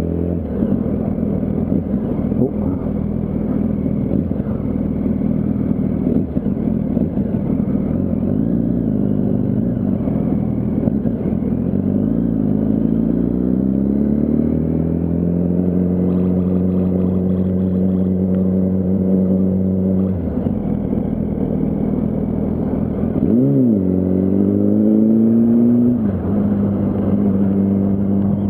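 Yamaha R1 inline-four engine heard from on the moving bike, over wind and road noise. It runs steadily, then pulls up in revs about halfway through and holds. It drops off, gives a quick rev blip a few seconds later, then climbs again near the end.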